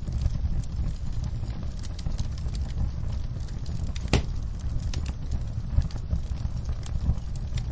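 Wood fire burning in a fireplace: a steady low rumble of flames with scattered small crackles, and one sharp pop about four seconds in.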